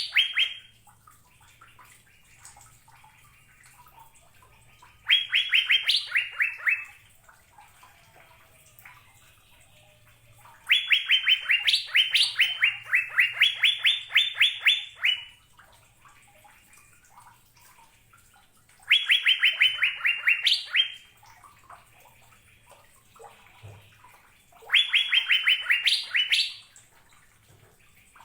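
Cucak biru (Asian fairy-bluebird) singing: phrases of quick, clear repeated notes, several a second, with pauses of a few seconds between them. Four phrases are heard; the longest, about five seconds, falls near the middle.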